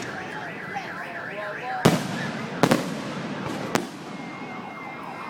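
Fireworks going off: three sharp bangs roughly a second apart, over a steady background of noise.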